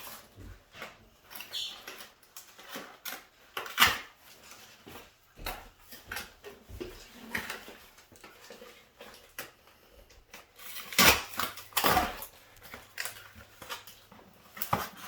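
A toy's cardboard and plastic packaging being handled and opened by hand: irregular rustling and small clicks, with a few louder knocks, about four seconds in and again around eleven to twelve seconds.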